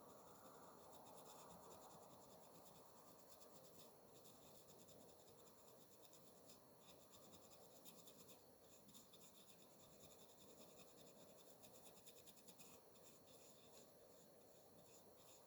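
Near silence: faint hiss with light scratching and small scattered ticks.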